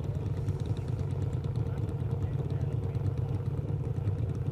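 Pro Stock drag-racing motorcycle engines idling steadily, with no revving.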